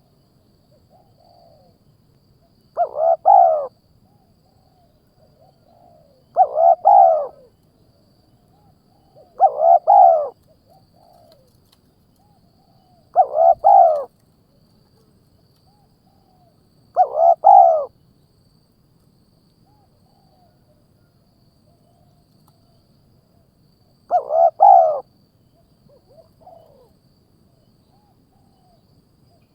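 A bird calling repeatedly: six loud calls of under a second each, about every three and a half seconds, with softer calls in between.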